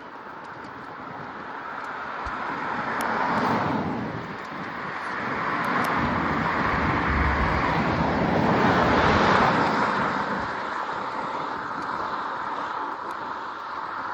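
Motor vehicles passing on the road: a rushing tyre and road noise swells to a peak about three and a half seconds in, eases, then builds to a louder, longer pass around nine seconds in before fading.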